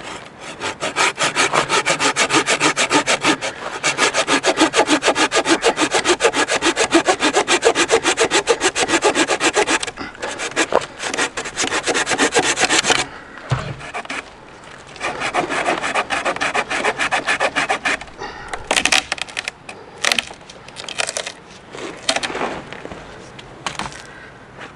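Hand saw cutting wood in fast, even back-and-forth strokes for about thirteen seconds. After that come shorter bursts of sawing and a few scattered knocks and scrapes.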